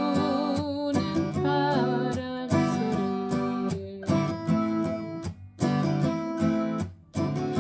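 Music: acoustic guitar strumming and plucking chords, with a wavering vibrato melody held over it in the first two seconds.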